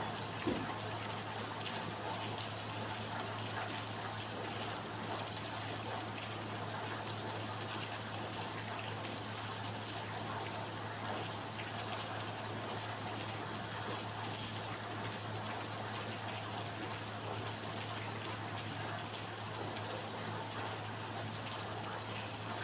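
Steady rain falling, with many small drops ticking throughout, over a steady low hum. A single short knock about half a second in.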